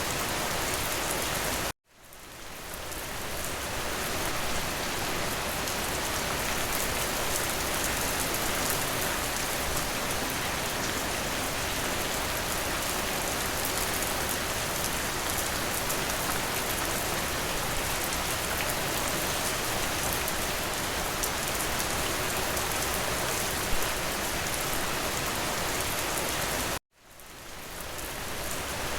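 Steady, dense rain pattering on a window. The sound cuts out abruptly twice, just under two seconds in and near the end, each time fading back up over a couple of seconds.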